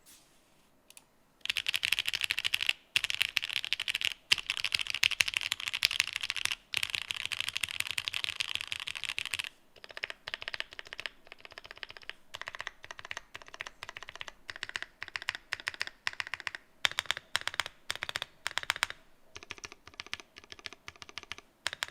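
Typing on a The New Eighty mechanical keyboard with Gateron Mochi linear switches and Cherry-profile keycaps: a fast, dense run of keystrokes starting about a second and a half in, loosening about halfway into more broken typing with short pauses.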